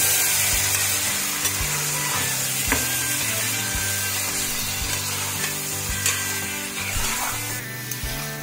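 Raw chicken pieces sizzling in hot oil in a pot while they are stirred, with a few sharp clinks of the steel spoon against the pot.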